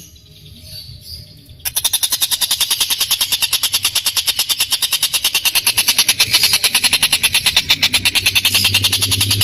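Tengkek buto bird giving a long, harsh, rapid rattling call, about ten strokes a second, that bursts in about a second and a half in after a few faint chirps: the drawn-out rough 'ngebren' call this bird is kept and recorded for.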